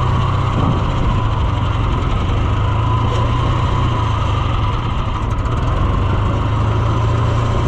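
Farm tractor engine running steadily at a low, even hum.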